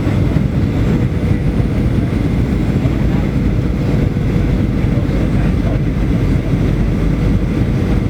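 Steady airliner cabin noise in flight: engine and airflow noise, low and even throughout, with a faint steady hum.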